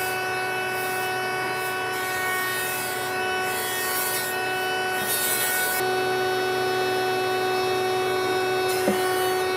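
An electric woodworking machine running with a steady whine. Its tone shifts slightly about six seconds in, and there is a short knock near the end.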